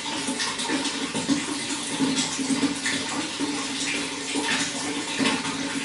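Water running steadily, with frequent irregular gurgles and small splashes.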